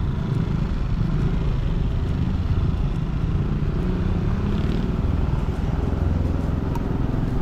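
A motor vehicle running steadily, with a constant low rumble and road noise.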